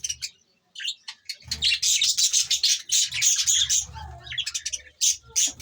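A flock of budgerigars chirping: a few short chirps, then a dense burst of rapid high chirping for about two seconds, thinning to a few sharp chirps near the end. A low rumble runs under the busiest stretch.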